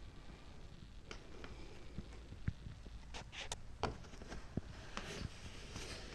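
Irregular light clicks and taps over a low rumble, more frequent in the second half, like handling or footstep noise.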